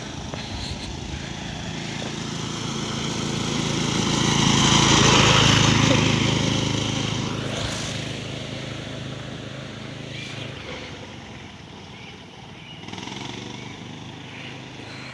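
A mini bike's small single-cylinder engine riding past. It grows louder to a peak about five seconds in, then fades as it moves away.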